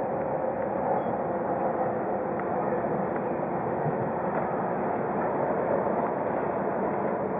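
Steady running noise inside a Tohoku Shinkansen passenger car as the train rolls along: an even rumble and hiss with a few faint ticks.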